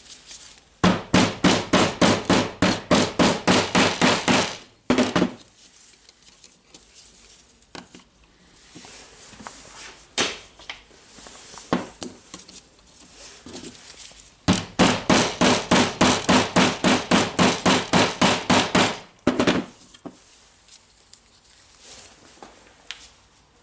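A hammer rapidly tapping a ball bearing into place on the wobble bearing of a Makita DHR202 rotary hammer: two runs of quick, even metal strikes, about six a second and each lasting about four seconds, with a few single knocks between them.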